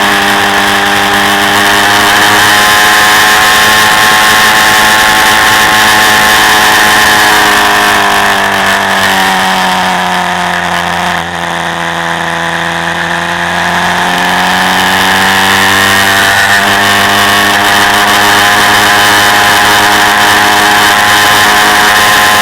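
Quad bike engine running at steady revs, heard from on board. About nine seconds in, the revs drop and stay low for a few seconds, then climb back to their earlier pitch about sixteen seconds in.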